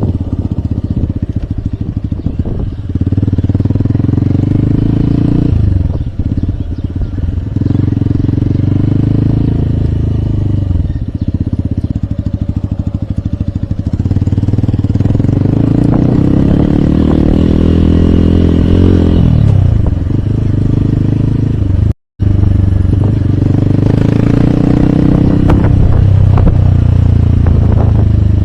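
Hero Hunk's 150 cc single-cylinder four-stroke engine heard from the rider's seat under way. It pulls up through the revs and drops back at gear changes several times. The sound cuts out completely for a moment about two-thirds of the way in.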